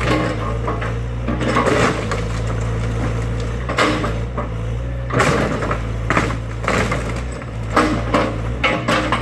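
Excavator's diesel engine running steadily while timber cracks and crashes as a garage is torn down, with several sharp cracks in the second half.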